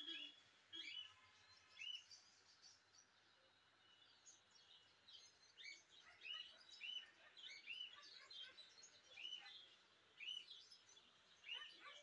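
Small birds chirping faintly: short, arched chirps, several a second at times, from more than one bird.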